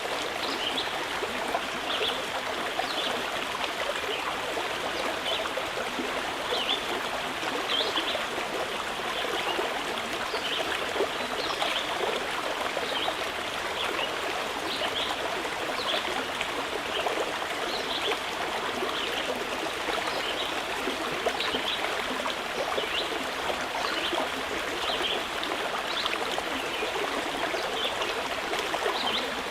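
Mountain river flowing and babbling steadily, with short bird chirps repeating every second or two over the water.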